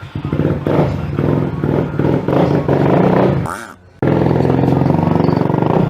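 Suzuki Smash motorcycle's single-cylinder engine through a loud aftermarket Creed exhaust, revving in repeated surges while riding. It dips briefly a little past three seconds in, then runs on steady and loud.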